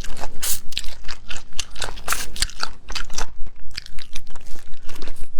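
Close-miked biting and chewing of stir-fried shrimp: a fast run of crunches as the shell and flesh are bitten through.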